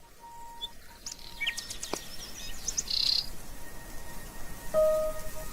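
Small birds chirping, a string of short high chirps and quick rising and falling notes. About five seconds in, a steady held tone comes in underneath.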